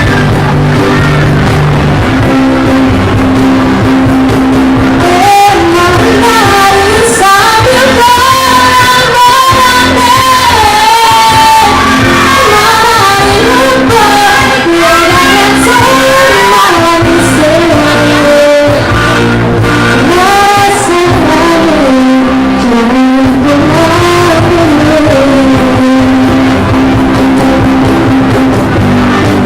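A student music ensemble playing a song live, with guitar and other instruments under a sung melody that comes in about five seconds in. The recording is very loud and of poor quality.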